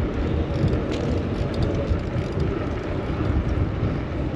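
Steady city street traffic noise heard while cycling, dominated by a heavy, fluctuating low rumble.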